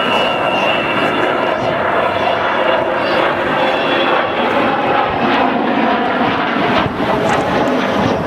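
Avro Vulcan bomber's four Rolls-Royce Olympus turbojets, a loud, steady jet noise as the aircraft flies its display, with a high whistle fading away just after the start.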